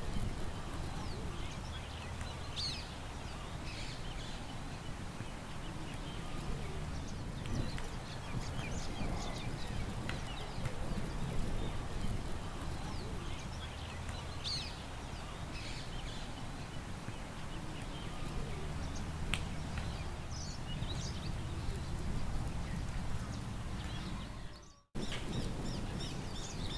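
Small birds chirping in short scattered calls over a steady low rumble of wind. The sound drops out for a moment near the end.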